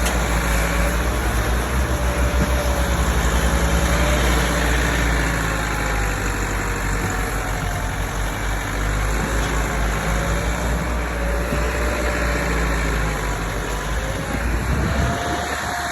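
Tractor diesel engine running steadily with a rapid low pulse and a wavering mid-pitched tone; the deep low end drops away near the end.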